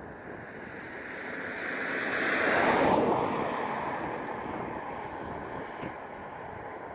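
Aircraft passing overhead: a rushing engine noise swells to a peak about three seconds in, dropping in pitch as it goes by, then slowly fades away.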